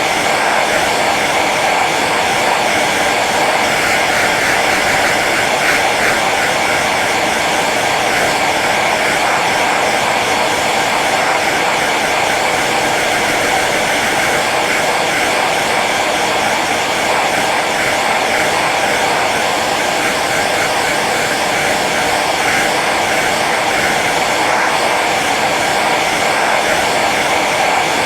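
Hair dryer running steadily on its low setting: an even rush of blown air with a faint motor whine.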